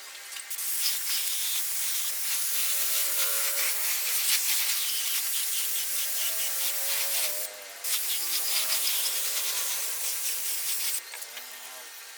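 Steady scratchy rubbing of an abrasive against a surface, with some faint squeaks. It stops briefly about seven and a half seconds in, and again about a second before the end.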